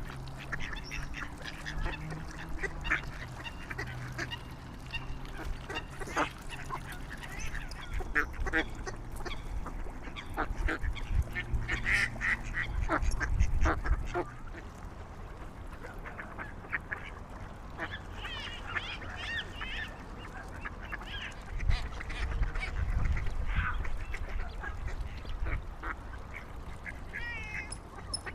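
Waterfowl calling over and over, many short calls one after another, with a low rumble at times.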